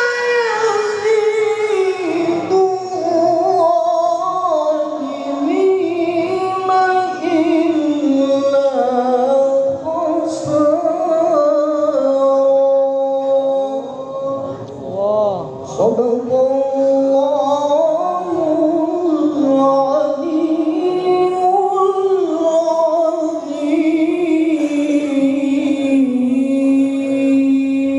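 A single voice chanting Quran recitation in the melodic tilawah style, holding long ornamented notes that waver and slide in pitch.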